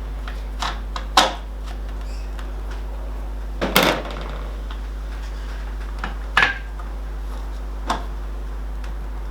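A handful of sharp metallic clinks and knocks from bolts, washers and tools being handled while a roof rack is bolted on. The loudest come about a second in and just under four seconds in, over a steady low hum.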